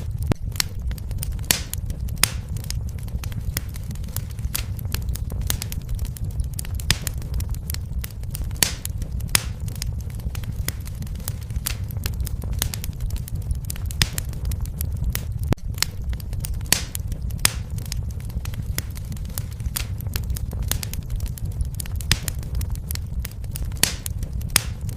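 Fire in a fireplace crackling: frequent sharp, irregular pops and snaps over a steady low rumble.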